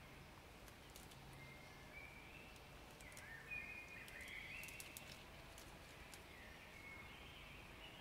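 Faint birdsong: short whistled notes at a few different pitches, busiest in the middle and again near the end, with a few soft ticks in the middle.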